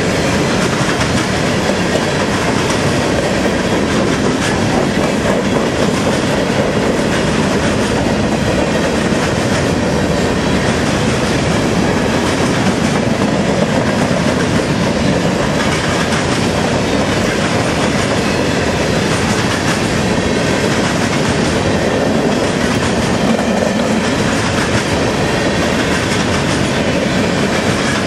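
Freight train's covered hopper cars rolling past close by: a loud, steady noise of steel wheels running on the rails.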